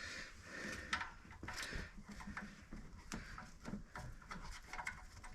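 Faint, scattered clicks and light knocks of bolts and hand tools being handled while compressor mounting bolts are fitted.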